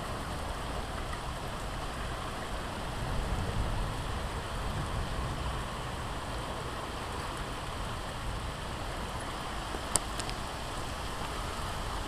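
Heavy rain pouring down steadily, with a low rumble underneath. One short sharp click about ten seconds in.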